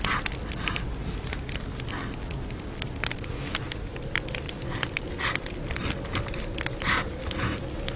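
Campfire crackling: a steady stream of sharp, irregular pops and snaps over a low rumble.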